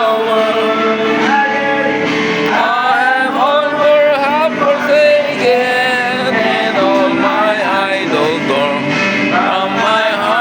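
Voices singing a gospel hymn, with long held notes that glide between pitches.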